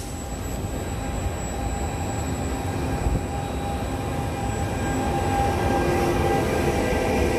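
Trenord E.464 electric locomotive hauling double-deck passenger coaches past at close range: a low rumble of wheels on rail with a steady electrical whine over it, growing louder as it draws near and passes.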